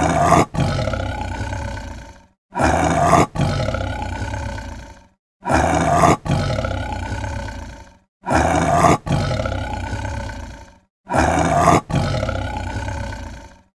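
An animal's roar, the same call repeated five times about every three seconds: each starts with a short sharp blast, breaks off briefly, then goes on as a longer call that fades away.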